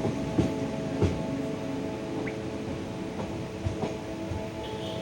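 Train running: a steady hum with a few scattered sharp clicks and knocks.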